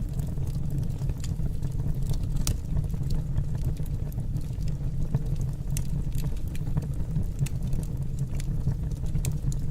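Wood fire burning in a fireplace: a steady low roar of the flames with scattered sharp crackles and pops from the burning wood.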